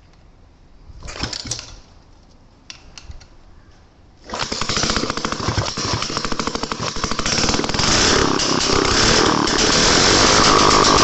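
Daihatsu Midget DKA's small two-stroke engine catching suddenly about four seconds in, after a short burst of noise and a few clicks, then running with rapid firing that grows louder toward the end.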